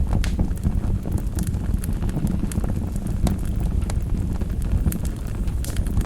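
Fire burning in a fireplace: a steady low rush of flame with frequent sharp crackles and pops scattered irregularly throughout.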